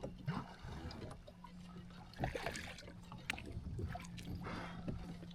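Water splashing and trickling around a kayak, with scattered light knocks and handling noises on the hull and a few brief swishes.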